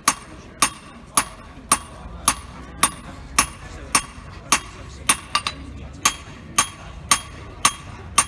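Blacksmith's hand hammer striking metal on an anvil in a steady rhythm, about two blows a second, each with a bright metallic ring. There is a quick double blow about five seconds in.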